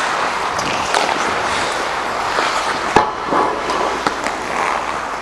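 Hockey skate blades scraping and carving across ice, with a sharp knock about three seconds in and a few lighter clicks.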